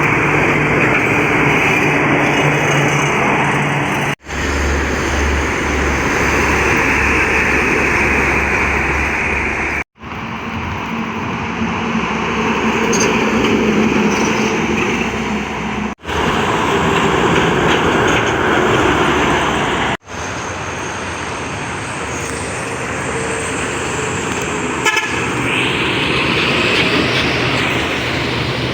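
Heavy trucks passing on a highway, engine and tyre noise, with horns sounding at times, heard in several short clips joined by abrupt cuts.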